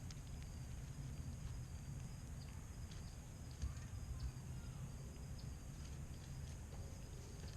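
Faint, irregular clicks and taps of squirrels feeding on nuts, with a couple of louder knocks about halfway through, over a low steady rumble.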